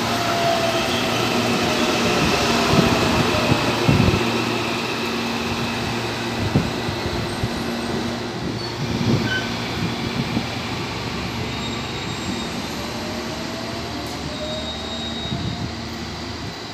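Electric commuter train moving through the station, running steadily. The traction motors whine, falling in pitch over the first few seconds as the train slows. The wheels knock sharply a few times over rail joints, and a rising whine comes in later as a train gathers speed.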